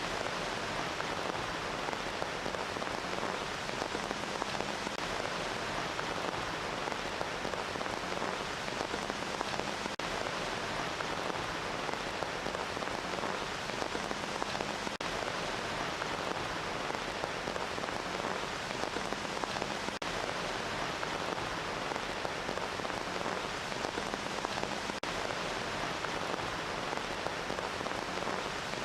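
Steady, continuous rain falling on a surface, an even hiss of many drops without a break or thunder.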